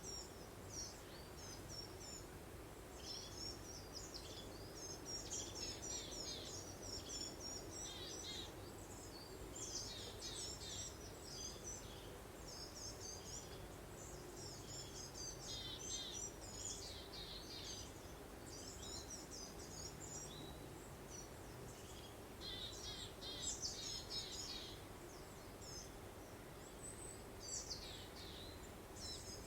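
Small songbirds singing in frequent short, rapid, high trills and chirps over a steady soft wind-like background hum.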